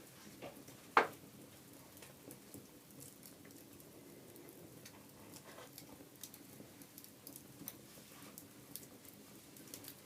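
Wood fire crackling in a fireplace: scattered small pops and snaps, with one much louder pop about a second in.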